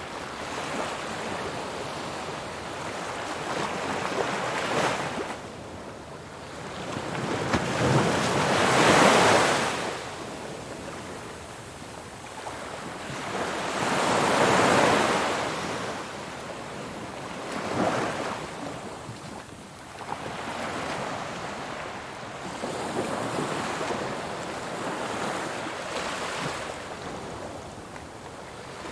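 Ocean surf: waves breaking and washing in, the noise rising and falling in slow surges every few seconds, two of them clearly louder than the rest.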